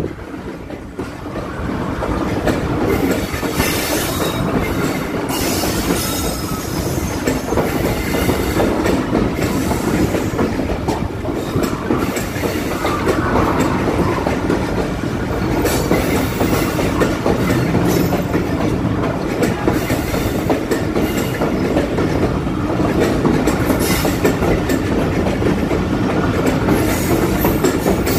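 A train running past close by: a steady rumble of wheels on the rails with repeated clickety-clack over the rail joints.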